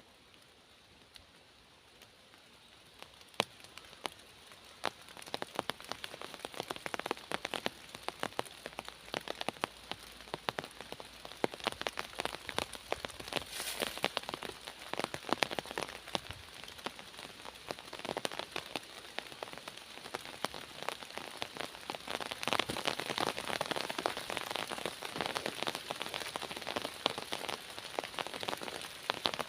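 Rain falling in a forest, with many individual drops heard as sharp ticks over a steady hiss; the rain starts light and gets heavier and denser from a few seconds in.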